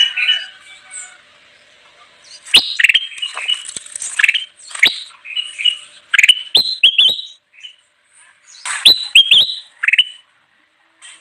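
Kutilang emas bulbul singing hard: bursts of short, sharp, clear whistled notes, with pauses between phrases and a gap near the end.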